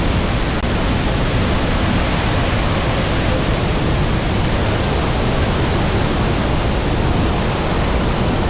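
Steady, loud rushing of the Iguazu Falls, a huge mass of falling water, as an unbroken even noise.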